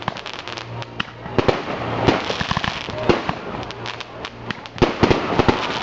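Fireworks going off: a dense, irregular run of sharp bangs and crackling pops, several at a time, with a quick cluster of louder bangs near the end.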